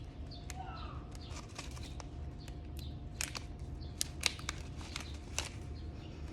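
Scattered sharp clicks and crinkles of a dried-herb package being handled and opened, with a few faint bird chirps in the background near the start.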